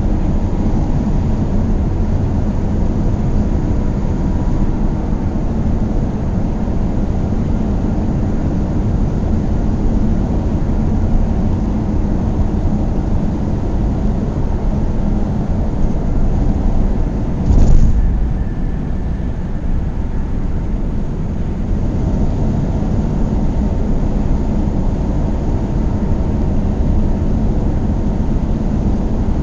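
Car driving along the road, a steady rush of engine and tyre noise. About two-thirds of the way through there is one brief, louder swell.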